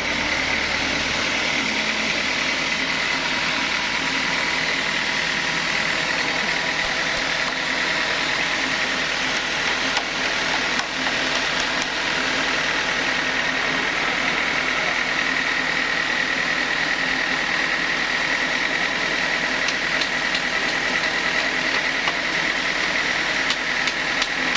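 Sawmill saw running steadily through a teak log, a steady high whine over the machine's drone.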